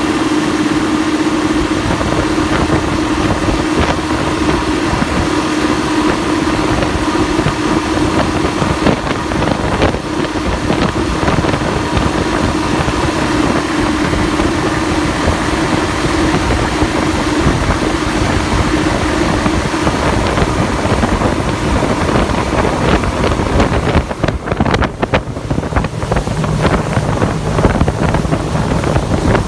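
Motorboat running at high speed, its engine hum mixed with rushing water and wind buffeting the microphone. The steady engine hum fades about halfway through.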